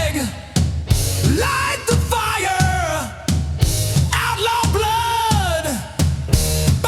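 Rock song with sung and shouted vocals over drums and bass.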